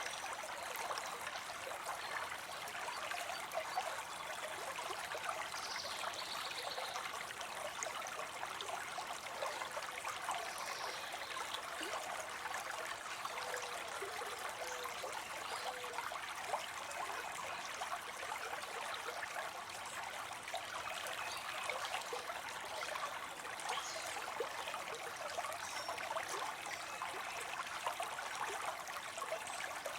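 Water spilling steadily into a pond: an unbroken splashing trickle of falling water.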